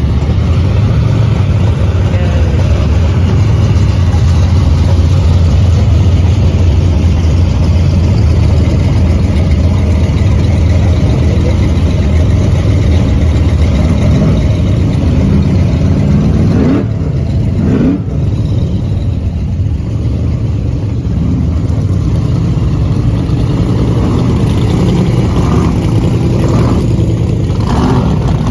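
Deep, loud rumble of blown V8 hot-rod engines with big exposed superchargers rolling slowly past, with a couple of quick throttle blips about halfway through.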